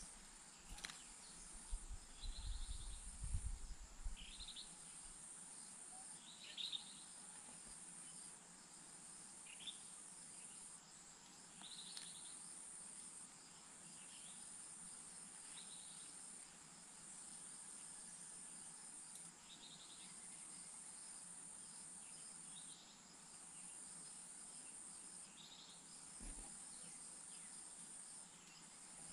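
Faint, very high-pitched insect trilling in regular bursts about two seconds long with short breaks between. Short high chirps come every couple of seconds, and a low rumble sounds briefly a few seconds in.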